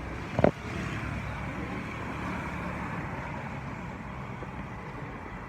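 Steady low background noise with one sharp knock about half a second in.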